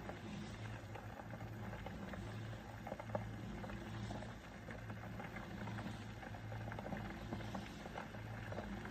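Elite Gourmet EKT8717 borosilicate glass electric kettle heating a small amount of water: a steady hiss with scattered small crackles and ticks over a low hum.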